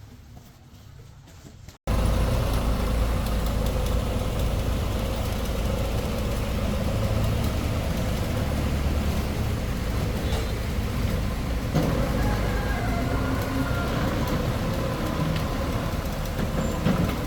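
Truck engine running steadily, cutting in abruptly about two seconds in.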